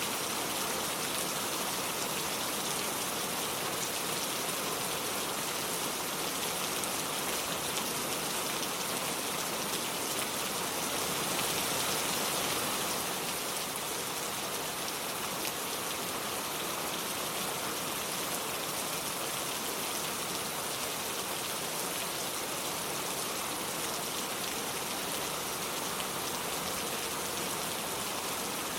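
Steady rain falling, an even dense patter, briefly a little louder about twelve seconds in.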